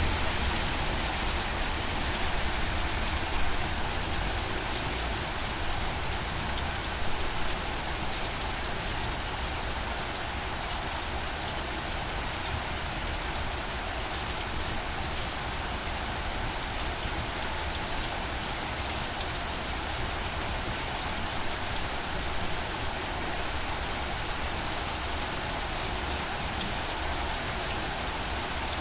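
Steady rain: an even hiss of many drops falling on a surface, with a low rumble underneath and a few slightly louder patters in the first several seconds.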